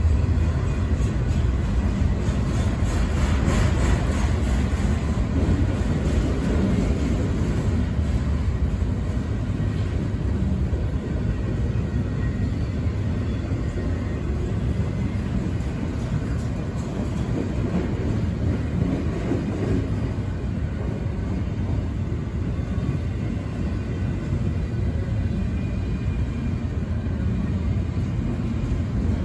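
Freight train rumbling steadily on the track, a continuous low rumble with no horn or distinct clanks.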